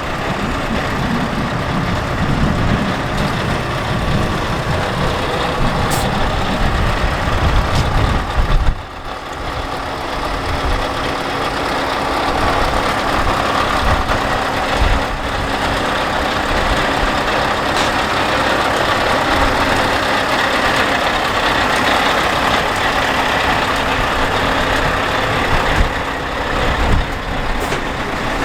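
Scania R730 truck's V8 diesel engine running. A deep low rumble drops away suddenly about nine seconds in, and a steadier, higher running sound carries on after it.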